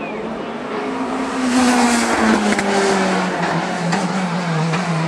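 Race car engine running hard as the car passes, loudest about two seconds in, its engine note falling steadily in pitch.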